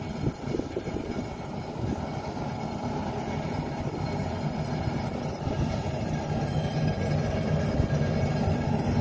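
Mount Washington Cog Railway train running on its steep rack track: a steady low rumble, with a few knocks in the first second, growing slowly louder.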